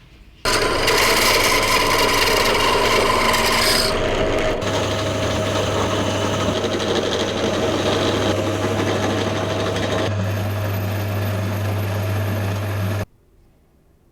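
An electric power tool abrading metal: a loud, steady rasping grind over a low motor hum, changing in pitch a couple of times and cutting off suddenly near the end.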